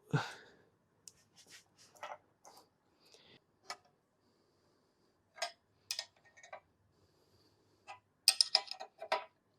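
Scattered light metallic clicks and clinks of tools and clamping hardware being handled on a milling machine setup, with a quick run of sharper knocks near the end.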